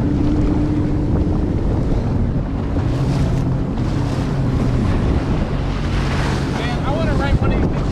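Jet ski engine running steadily, with water rushing past and wind buffeting the microphone.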